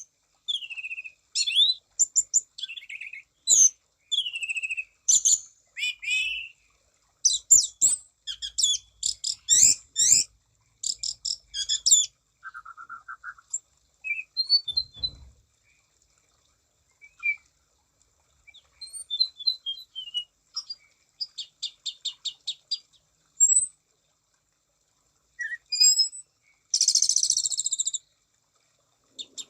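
Orange-banded thrush (anis cendana) singing a varied song of sliding whistled notes, quick chirps and fast trills in bursts, with short pauses between them.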